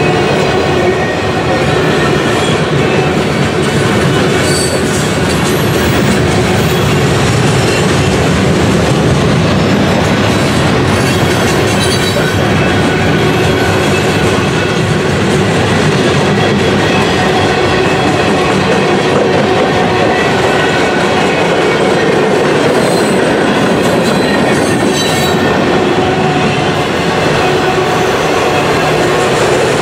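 Freight train cars, mostly autoracks, rolling past close to the track: a steady loud rumble of steel wheels on rail, with thin steady squealing tones from the wheels and a few sharp clanks.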